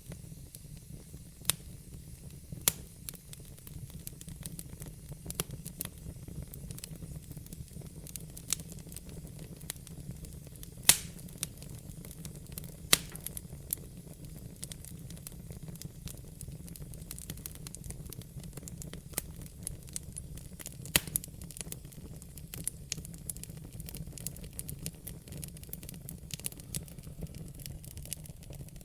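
Wood fire burning in a fireplace: a steady low rumble with frequent sharp, irregular crackles and pops, a few of them loud.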